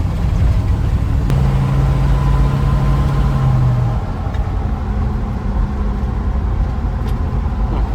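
1972 Chevrolet C10 pickup's 350 cubic-inch V8 pulling the truck away, heard from inside the cab as a steady low drone. The drone eases and drops in level about four seconds in.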